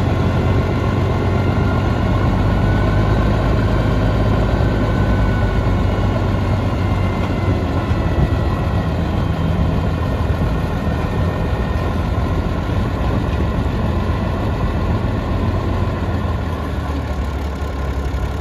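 Engine of a 1973 Autocar heavy truck running steadily at a low, even speed.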